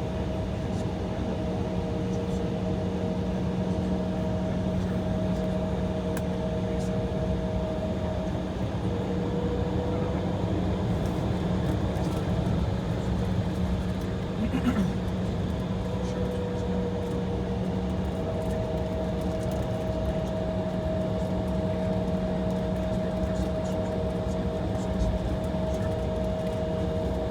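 Steady cabin hum of an Embraer E175 sitting on the taxiway with its engines idling and the air system running: even noise with a few constant tones held through it.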